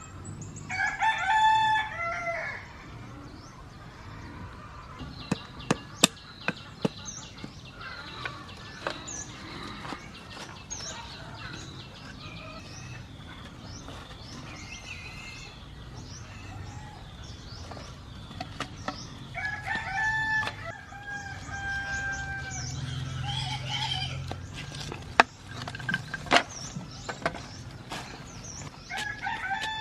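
Rooster crowing several times: near the start, around twenty seconds in, and again at the end. Small birds chirp throughout, and there are scattered sharp knocks.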